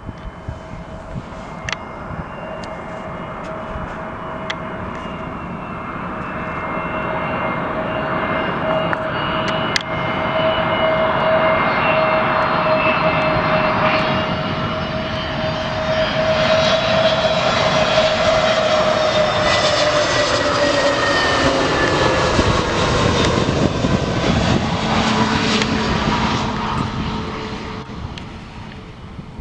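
Jet airliner passing close by. Its engine noise builds steadily to a loud peak, the engines' whine drops in pitch as it goes past, and the sound fades near the end.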